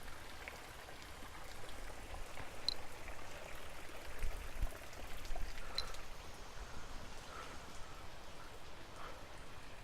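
Steady hiss of flowing water, with a few short high chirps and some low thumps.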